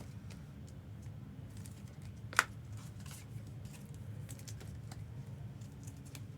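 Scattered light clicks and taps, with one sharper click about two and a half seconds in, over a steady low hum.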